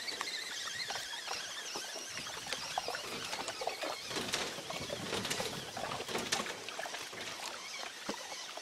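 Soft, irregular clicks and patter of a feeder rod and spinning reel as a hooked fish is reeled in.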